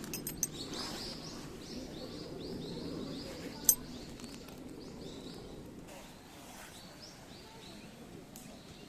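A small bird chirping over and over in short repeated notes, against a steady low outdoor rumble, with one sharp click a little under four seconds in.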